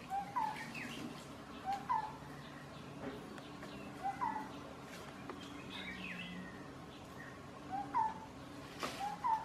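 A bird repeating a short two-note call, a low note followed by a rising higher one, every one to two seconds, with fainter chirps from other birds. A few sharp clicks sound between the calls, the clearest near the end.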